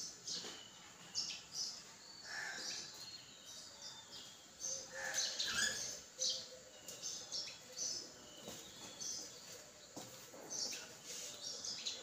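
Small birds chirping and calling: many short, high chirps scattered throughout, with a few lower, fuller call notes about two seconds in and again around five seconds in.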